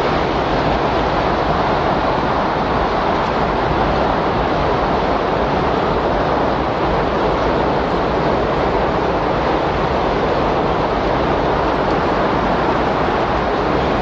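Windstorm ambience: a steady, even rush of strong wind with no gusts or breaks.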